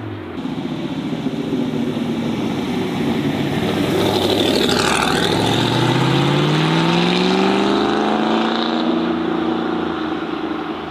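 A performance car's engine accelerating hard past the roadside, loudest about four to five seconds in, then its pitch rising steadily as it pulls away. The sound cuts off suddenly near the end.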